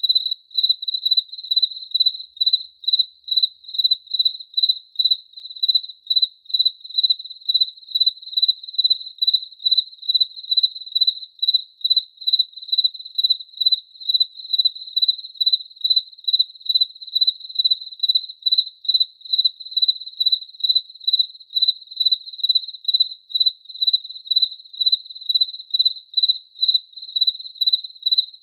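Cricket chirping: a high, clear chirp repeated evenly about twice a second.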